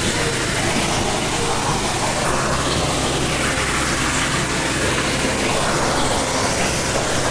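Steady rush of a jungle stream and waterfall flowing over rocks, an even, unbroken noise, with a low rumble underneath.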